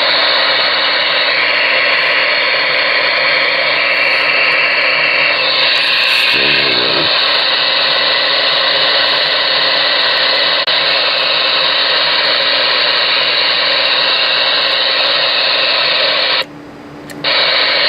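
Galaxy DX-98VHP ten-meter radio's speaker hissing loud receiver static with the squelch open, faint wavering tones drifting through the noise in the first few seconds. The static cuts out briefly near the end.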